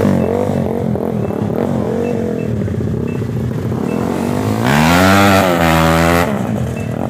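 Motorcycle engine revving in short blips, then a loud rev about four and a half seconds in that climbs in pitch, holds for about a second and a half and cuts off suddenly.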